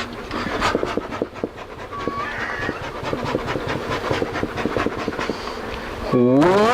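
Close, irregular crackling and rubbing of a clip-on microphone being taped to bare skin with duct tape. Near the end a drawn-out pitched tone rises, then holds steady.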